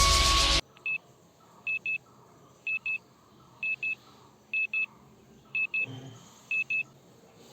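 Electronic music cuts off about half a second in. Then an electronic alarm beeps in quick pairs of high tones, about once a second.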